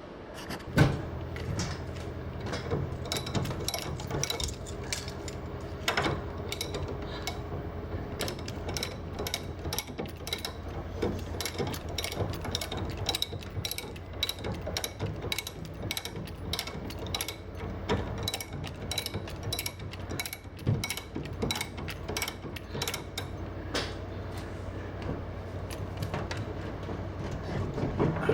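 Mechanical ratchet-like clicking, fast and almost continuous, with a steady low hum under it. It comes from working the transmission jack that holds the over-the-range microwave while the microwave is lowered.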